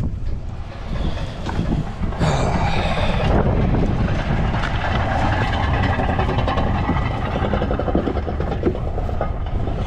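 Work truck running and rattling as it rolls over rough landfill ground, with a steady low rumble and frequent knocks and clatters. A brief high squeal comes about two seconds in.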